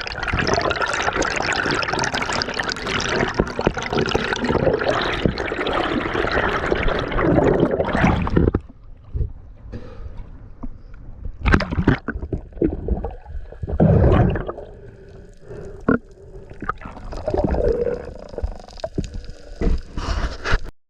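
Water rushing and gurgling around an action camera on a free dive. About eight seconds in it drops suddenly to quieter gurgling, broken by short splashes and knocks.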